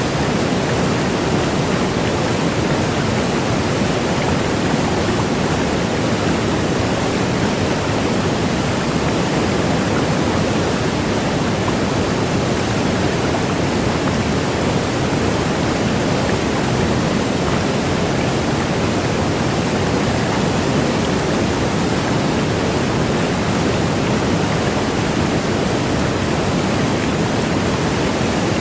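Niagara Falls: the steady, loud rush of a huge volume of falling water, unbroken throughout.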